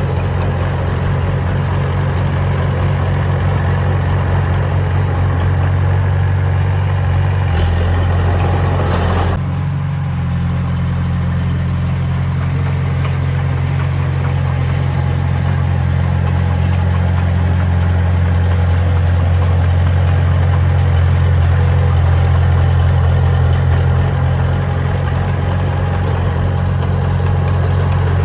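Heavy diesel engine of earthmoving machinery running steadily, with a harsher, louder stretch about eight seconds in that drops back after a couple of seconds.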